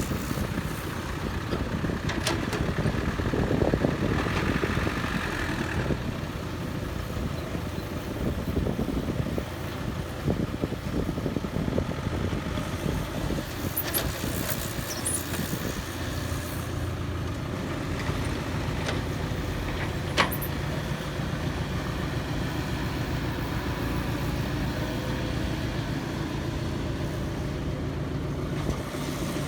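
Heavy construction machinery engine running steadily, with a few sharp knocks scattered through.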